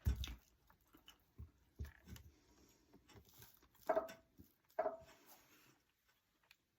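Faint handling sounds of small craft pumpkins being picked up and glued on: scattered light taps and rustles, with two brief squeaks about four and five seconds in.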